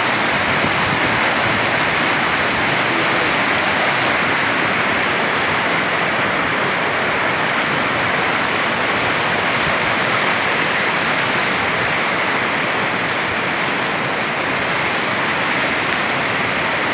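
Steady rushing of a fast mountain stream, a continuous loud wash of water with no breaks.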